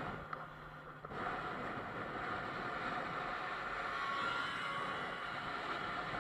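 Steady running noise of a moving car, a haze of road and wind noise picked up by a dash camera, dipping briefly about a second in.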